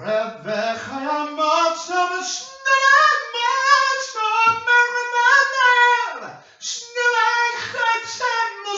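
A high solo voice singing unaccompanied, in long held and sliding notes, with a short pause for breath about six seconds in.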